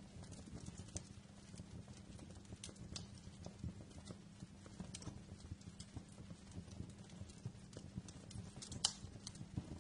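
Fireplace fire crackling, with irregular snaps and pops over a low steady rumble; the loudest pop comes near the end.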